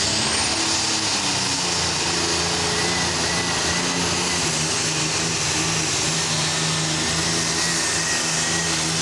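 Turbocharged diesel super stock pulling tractor at full throttle under load: a hard-running engine drone topped by a high, steady turbocharger whine that climbs in pitch just at the start and then holds.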